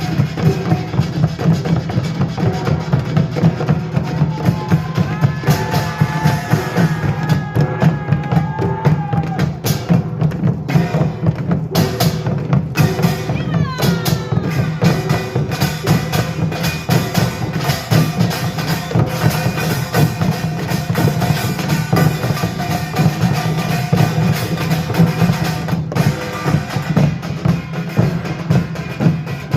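Korean pungmul percussion ensemble playing a dense, fast rhythm, with drums and small gong strokes packed closely together, and a few brief held tones partway through.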